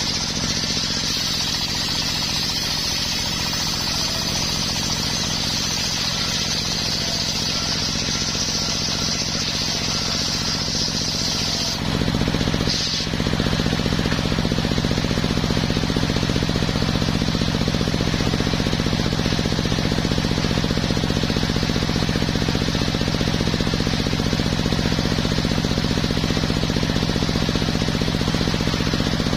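Homemade circular sawmill running steadily while sawing coconut wood. A high hiss stops about twelve seconds in, and the low machine sound then gets louder and carries on evenly.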